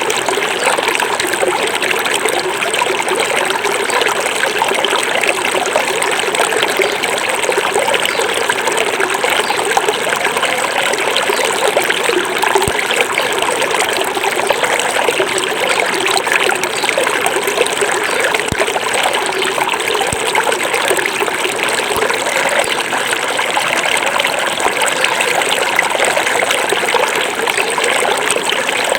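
Small forest river flowing over stones, a steady rushing and trickling of running water.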